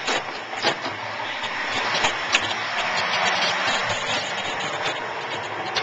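Steady rushing noise inside a passenger train, with scattered sharp clicks and knocks, swelling a little in the middle.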